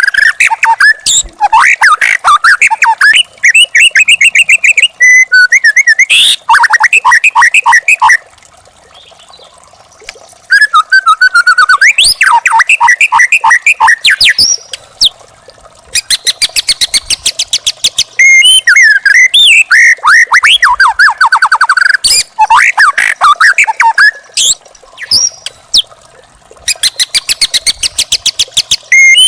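Young wild white-rumped shama singing loud phrases of rapidly repeated whistled notes and trills, with a pause of a couple of seconds near the middle.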